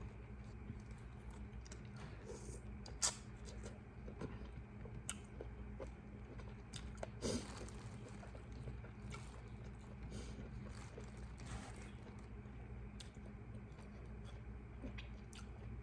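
A person chewing seafood boil up close, with small wet clicks and mouth noises. Two sharper clicks stand out, about three and seven seconds in.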